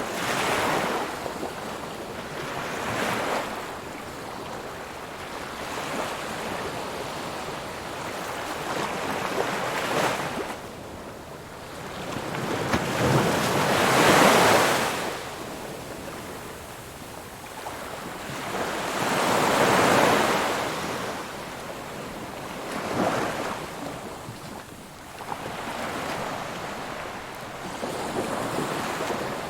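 Ocean waves breaking and washing on a shore, in swells that rise and fade every few seconds, the biggest about fourteen and twenty seconds in.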